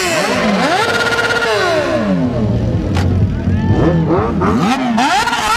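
Sport motorcycle engine revved through its exhaust: the pitch climbs and holds high, falls back to a low idle rumble about two seconds in, then climbs again in quick blips near the end. A single sharp click sounds around the three-second mark.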